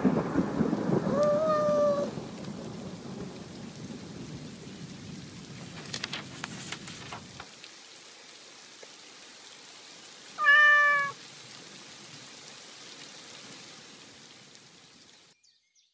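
Rain falling with a low rumble of thunder over the first couple of seconds, and a cat meowing twice: once about a second in and again, louder, about ten seconds in. The rain thins out and stops near the end.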